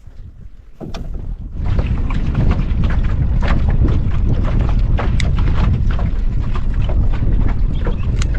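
Small aluminium boat under way, with heavy wind buffeting the microphone and water slapping against the hull; it rises to a loud, steady rumble about one and a half seconds in.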